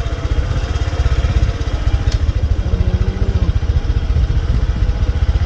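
Motorbike engine running steadily while riding, with heavy low rumble over it.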